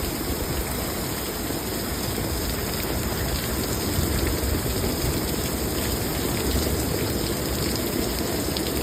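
Heavy thunderstorm rain pouring down steadily: an even, unbroken hiss with a strong low rumble underneath.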